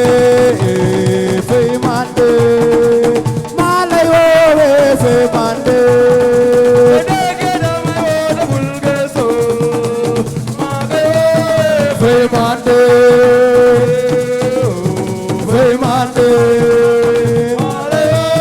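Assiko band music: hand drums and rattles keep a dense rhythm under a melody of long held notes that bend and waver.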